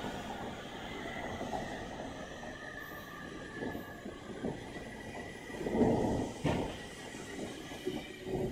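Tokyo Metro 05 series electric train pulling out of the station and running away down the track, its wheel and running noise carrying a faint whine. A louder rumble comes about six seconds in.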